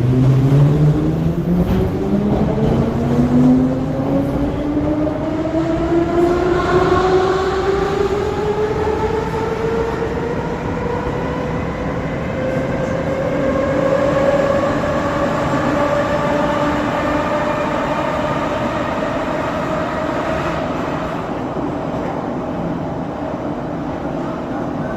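Moscow Metro 81-717.5M 'Nomernoy' train accelerating away from a station: its traction motors and gearing whine, rising in pitch with speed, and level off at running speed about halfway through, over a steady wheel-on-rail rumble.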